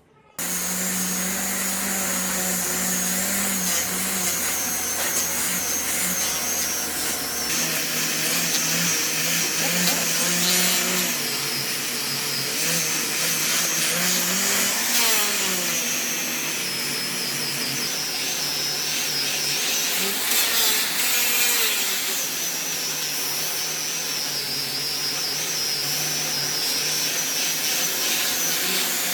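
An electric power tool working wood starts abruptly and runs continuously, its whine wavering in pitch as the load on it changes.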